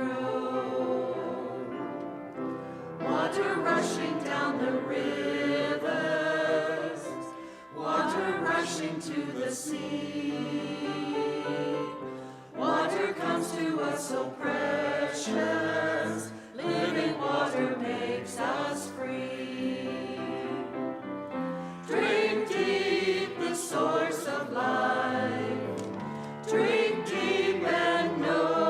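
Church choir singing an anthem in several voices, the phrases swelling and easing off.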